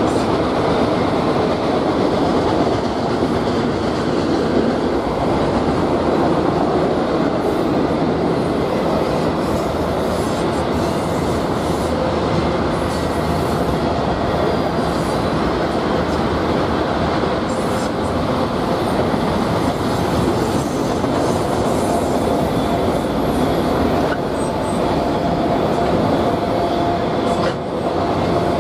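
BNSF freight train rolling past: a steady, continuous rumble of wheels on the rails, with a faint thin squeal held underneath.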